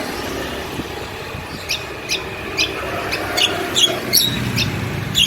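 A small bird chirping in short, sharp notes, about two a second, starting a couple of seconds in. Under the chirps runs a steady low rumble.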